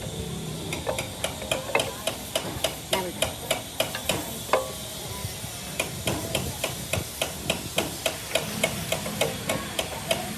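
Rapid, evenly spaced hammer taps, about three strikes a second, over a low background rumble.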